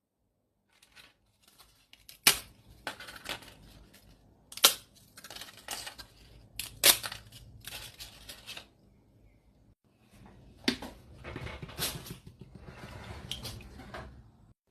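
Crisp papadam cracking and crunching: a sharp snap every two seconds or so, each followed by a spell of crackling, with a brief pause about two-thirds through.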